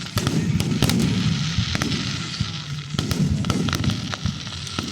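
Fireworks going off: a rapid scatter of sharp cracks and pops over a continuous low booming rumble.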